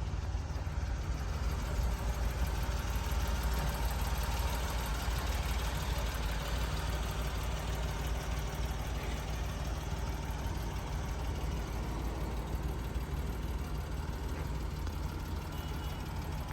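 1998 Mitsubishi Minicab truck's small three-cylinder engine idling steadily.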